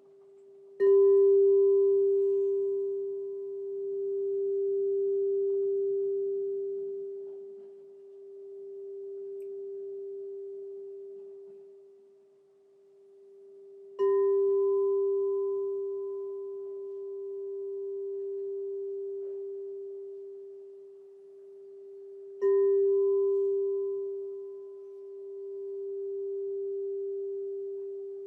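Crystal singing bowl struck three times, each strike ringing on as one pure, steady tone with a fainter higher overtone. The ring swells and fades in slow waves a few seconds apart.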